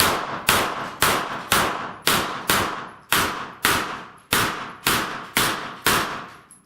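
Rapid string of gunshots, about two a second, fired at steel plates, each crack followed by a fading ring.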